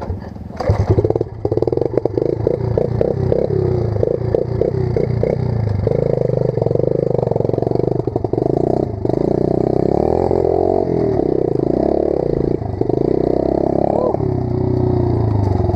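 Pit bike engine running and revving as the bike is ridden, its pitch rising and falling again and again. There is a clatter in the first couple of seconds.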